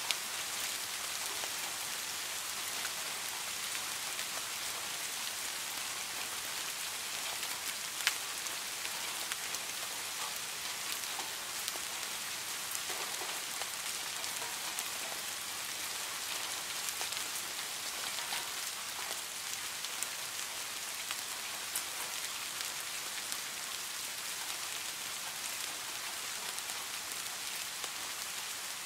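Steady rain: an even hiss with scattered drop ticks, and one sharper tick about eight seconds in.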